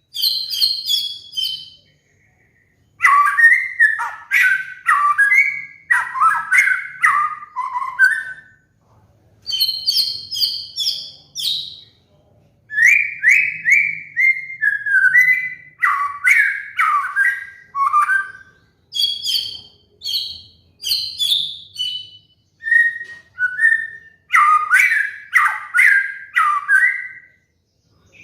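White-rumped shama (murai batu) singing a run of short whistled phrases with brief pauses between them, switching back and forth between higher and lower notes. It is played as a tutor and trigger song for caged birds.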